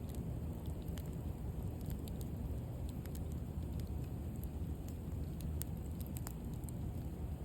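Wood bonfire burning: a steady low rumble with scattered sharp crackles and pops from the burning wood.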